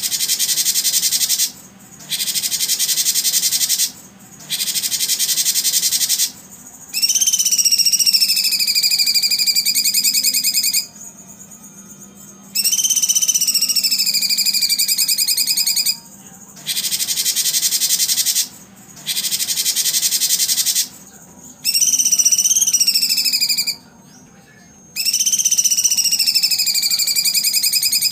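Recorded bird and insect calls played as a training track for songbirds: rapid, high buzzing trills alternate with long whistled calls that dip and then hold steady, each block a few seconds long and starting and stopping abruptly.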